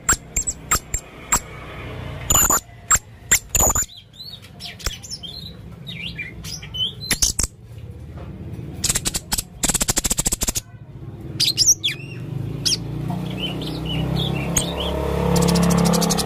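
Male blue-crowned hanging parrot (serindit) calling in a rapid series of sharp, high chirps and clicks, with fast stuttering trills about nine seconds in and again near the end.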